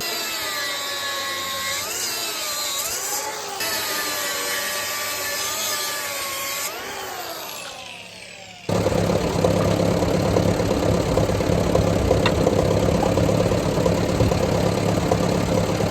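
A power tool cutting off the snow blade's pull tab, its pitch bending up and down under load, then winding down with a falling whine about seven to eight seconds in. After an abrupt change, a Ford half-track tractor's engine idles steadily.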